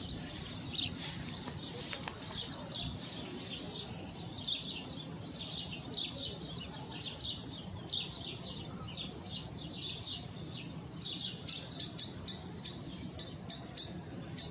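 Small birds chirping over and over in short, falling chirps, above a steady low rumble of background noise.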